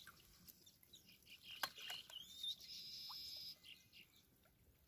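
Faint birdsong: short high chirps and one held high whistle around the middle, with a few soft clicks.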